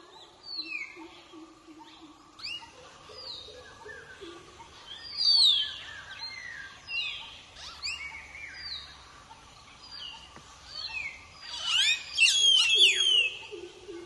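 Birds calling in forest: clear whistles that fall in pitch, repeated about once a second, with a flurry of overlapping whistles near the end, the loudest part. A lower, pulsing call sounds beneath at the start and again near the end.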